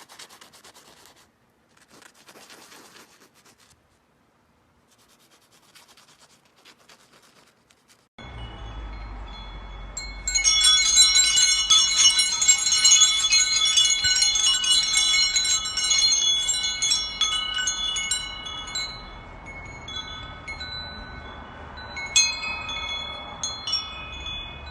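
Chimes ringing: many metal tones struck over and over and ringing on, loudest from about ten seconds in until about eighteen seconds, then thinning out, with a low hum underneath. Before that, about eight seconds of faint scratching.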